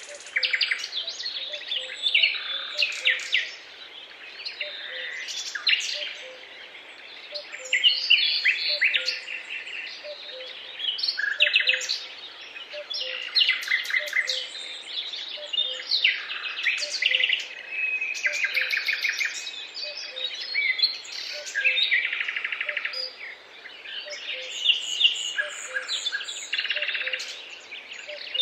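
A chorus of several songbirds singing and chirping, their songs and trills overlapping almost without a break. Under them a faint low note repeats steadily.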